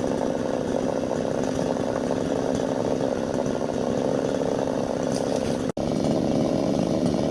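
Chainsaw engine running steadily, with one sharp, very brief break about five and a half seconds in.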